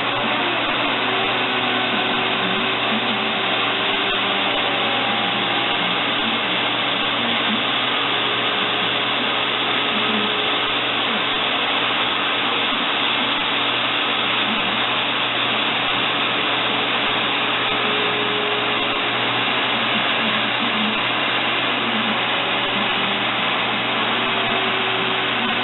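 A steady, loud whooshing noise from a motor-driven blower or similar machine, running without a break.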